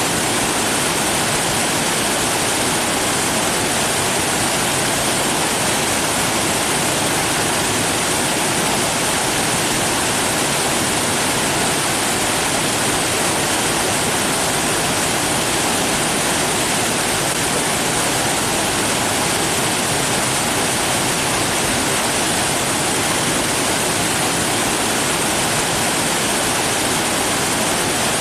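Rushing water, a steady, even hiss with no rise or fall, like a waterfall or fast stream.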